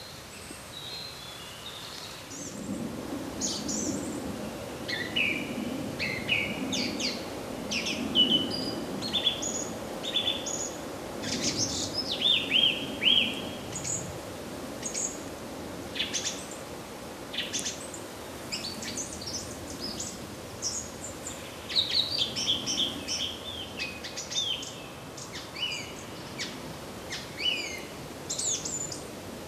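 Several birds calling and singing: many short chirps, trills and slurred whistled notes in quick succession, with a low rumble in the background for much of the time.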